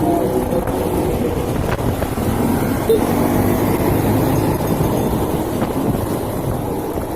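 Small 110cc motorcycle (SYM RV1-2) running along the road, a steady engine rumble mixed with road and wind noise.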